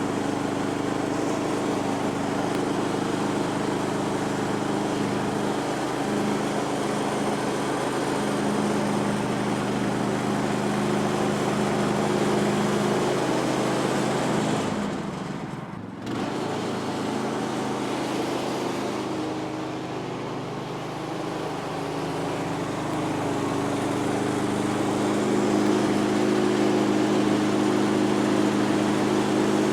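The small gas engine of a Woodland Mills HM126 bandsaw sawmill running steadily. The sound briefly dips and drops away about halfway through, then carries on.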